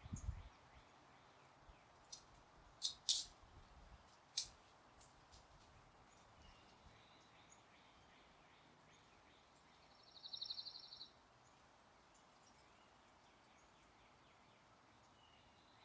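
Sparse songbird calls over faint background hiss: a few short, sharp high chips in the first few seconds, then a quick trill lasting about a second near the middle.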